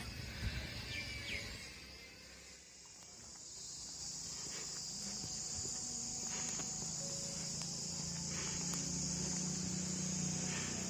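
Insects chirring in a steady high drone, with a low rumble that grows louder in the second half.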